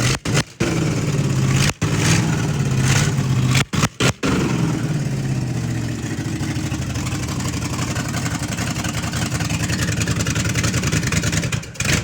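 A motor-driven machine running steadily, a low hum with a hiss over it, broken by several abrupt cuts in the first few seconds and again near the end.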